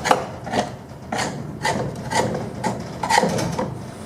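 Caked mud being scraped off the underside of a steel mower deck, in repeated rasping strokes about two a second.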